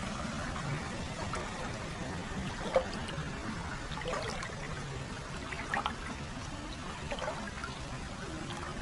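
Hot-spring water flowing continuously into an open-air foot bath: a steady trickling pour, with a few brief splashes standing out through it.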